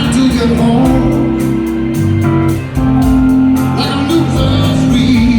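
Live band playing in a concert hall: a man singing over guitar, bass and drums.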